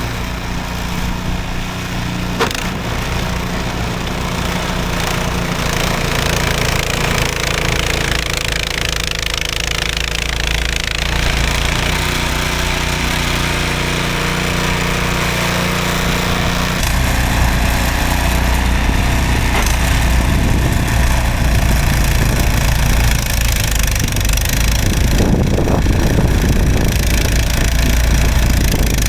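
Gasoline snowblower engine running steadily while clearing snow, with a sharp click a little over two seconds in; about two-thirds of the way through its note changes and the low drone grows stronger.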